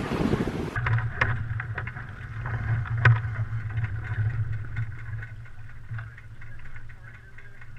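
Wind buffeting the microphone for under a second, then a sudden change to a steady low hum with scattered clicks and knocks, the sharpest about three seconds in.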